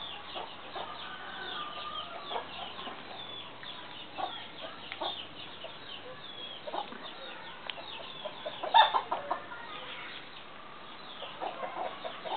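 Chickens clucking, with a steady stream of short high peeps throughout and one louder call about two-thirds of the way through.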